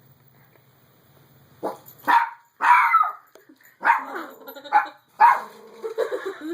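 Dog barking about six times in quick succession, starting about a second and a half in.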